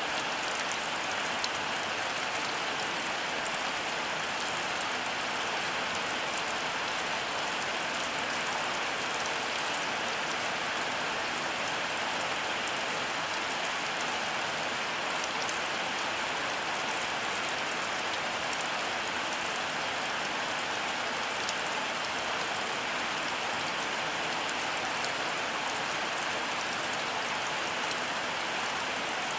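Heavy rain falling steadily: an even, unbroken wash with fine scattered drop ticks.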